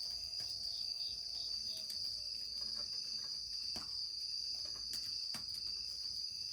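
Crickets trilling steadily in a high continuous chorus, with a fainter pulsing chirp beneath it and a few sharp clicks.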